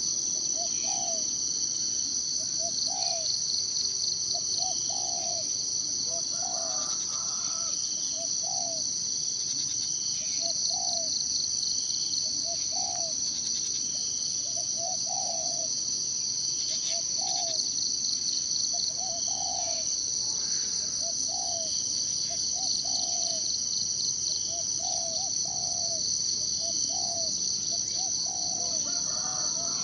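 Steady, pulsing chorus of insects, high-pitched, with a bird's short low call repeated roughly every two seconds and an occasional higher chirp.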